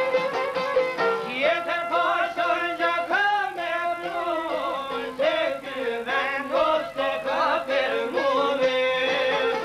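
Albanian folk music with violin: an ornamented, wavering melody sung over the instruments from about a second in until near the end, above a steady held tone.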